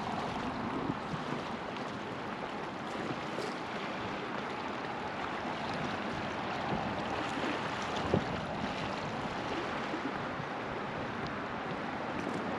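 River water rushing and babbling steadily around a floating raft, with a single sharp knock about eight seconds in.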